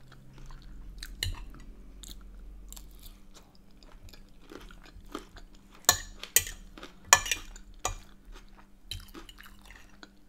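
Close-miked chewing of salt and pepper chicken and chips, with a metal fork clinking and scraping on the plate; a few sharp clicks stand out about six to eight seconds in.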